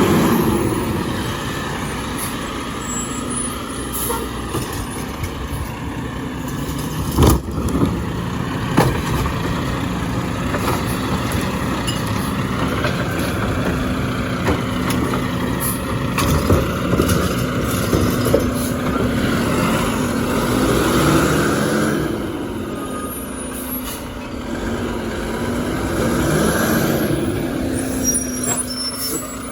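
Garbage truck running steadily, with a stronger mechanical whine in the middle and several sharp knocks.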